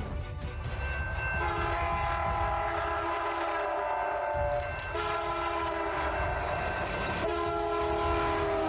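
Train horn sounding a chord of several notes in three long blasts, over a low rumble.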